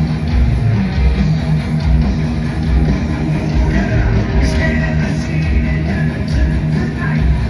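Heavy metal band playing live at full volume: distorted electric guitars, bass and drums driving a steady beat, heard through the arena's PA.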